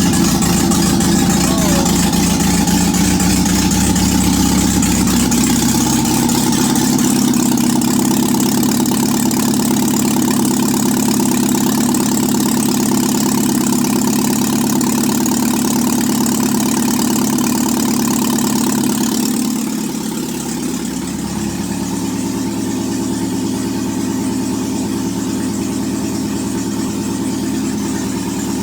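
Car engine running on its first start after sitting about ten years, on a new carburettor and distributor. With no exhaust system beyond the exhaust manifold it is a bit loud. About twenty seconds in it settles to a slightly quieter, steady idle.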